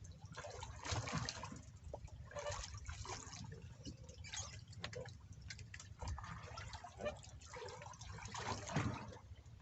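Water splashing and sloshing in irregular bursts every second or so, over a steady low rumble.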